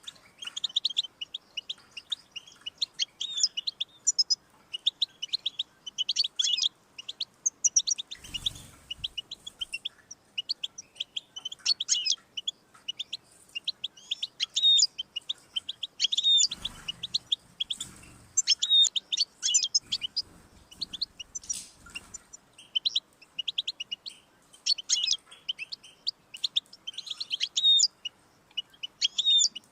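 European goldfinch singing: a fast, twittering song of short tinkling notes in bursts with brief pauses. A few faint low thumps fall around the middle.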